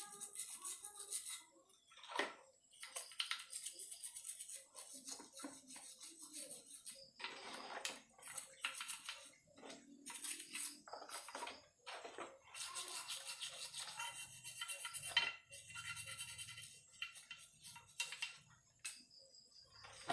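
A brush scrubbing a Yamaha RX King crankcase in quick back-and-forth strokes, in bursts broken by short pauses, to scrub off hardened oil crust.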